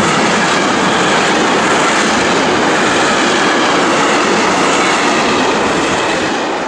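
Empty container flat wagons of a freight train rolling past: loud, steady running noise of steel wheels on the rails, beginning to fade near the end as the last wagon goes by.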